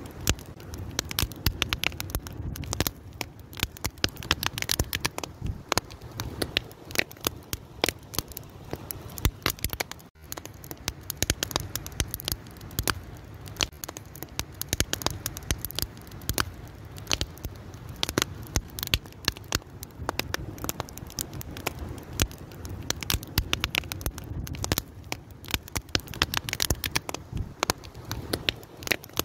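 Fire crackling, with many sharp irregular pops and snaps over a steady low rush of burning. The sound briefly drops out about ten seconds in.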